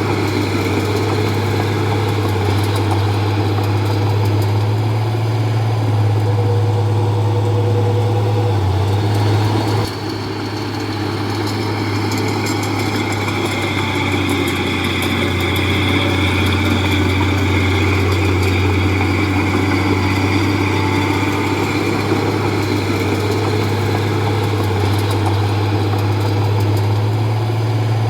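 Diesel engine of a Komatsu D31P bulldozer running steadily, its engine note dropping briefly about ten seconds in and then picking back up.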